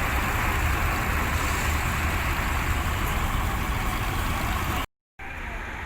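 Diesel tractor engine running steadily with a deep low rumble. Near the end it cuts out abruptly for a fraction of a second, then comes back quieter.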